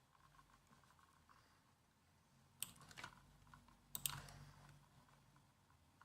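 Typing on a laptop keyboard: a faint, soft patter of keystrokes, with a few sharper, louder key clicks near the middle.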